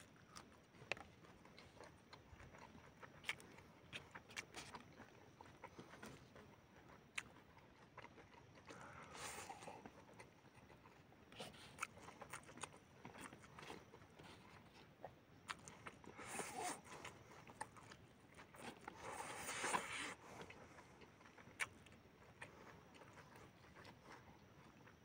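Close-up eating sounds of a man chewing noodles and raw king chillies: small wet clicks and crunches from biting and chewing, with three louder noisy stretches of sucking in noodles.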